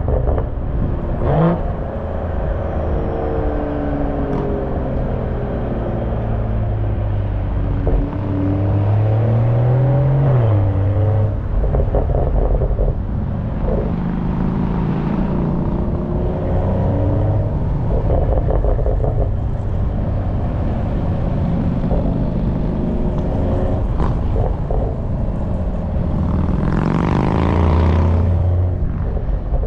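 Exhaust of a BMW M340i's B58 turbocharged 3.0-litre inline-six heard from the rear of the moving car, the engine note rising and falling as it accelerates and shifts, with a long rising pull near the end. Wind rumble on the microphone runs underneath.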